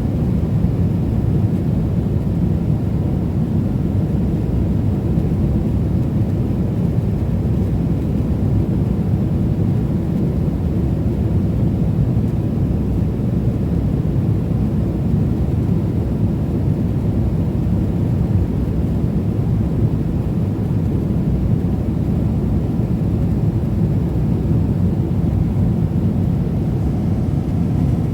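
Steady jet-engine and airflow noise of a Boeing 777-300ER airliner, a low even rumble heard from inside the cabin.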